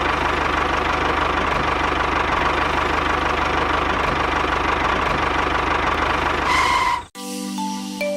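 An engine running steadily with a fast, even putter. It cuts off about seven seconds in, and mallet-percussion music begins.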